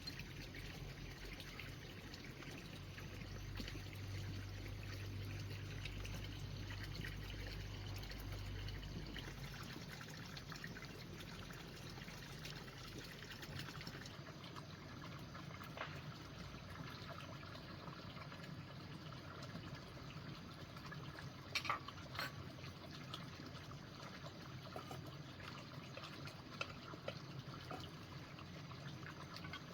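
Water trickling steadily, with a few sharp clicks about two-thirds of the way through.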